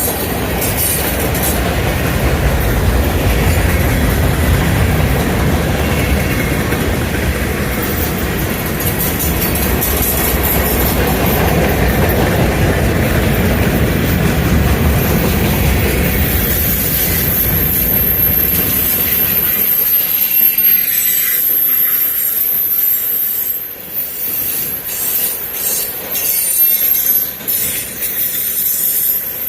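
Freight train rolling past: a heavy rumble of wheels on rail, joined past the middle by a high, steady wheel squeal. The low rumble drops away about two-thirds of the way through, while the squeal and some clicking go on.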